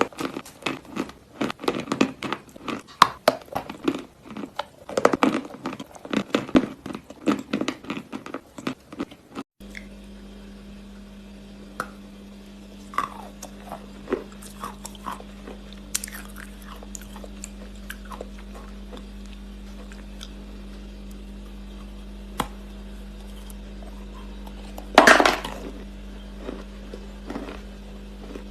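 Close-miked crunching and chewing of hard chunks of multani mitti (Fuller's earth clay), dense and rapid for about ten seconds. It then cuts off abruptly to a steady electrical hum with only a few small crunches and one loud crunch near the end.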